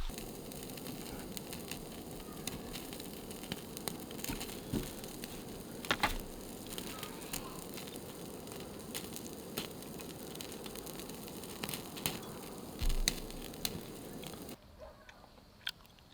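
A fire crackling and popping over a steady hiss, with louder pops about six and thirteen seconds in. It cuts off suddenly near the end to quieter background.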